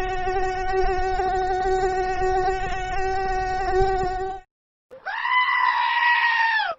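Two held, high-pitched cries from meme sound clips: a long, steady one lasting about four and a half seconds, then a shorter, higher one starting about five seconds in that drops in pitch as it ends.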